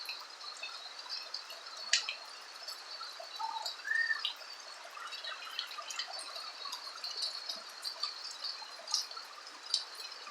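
Rain falling on a roof: a steady patter with many sharp individual drop hits. Two short arched chirps come a little over a third of the way in.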